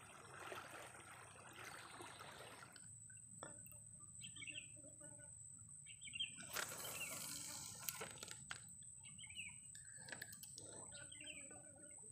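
Scattered short bird chirps over quiet surroundings, with a faint steady high-pitched whine throughout. A rustle of handling fills the first few seconds and comes again briefly in the middle.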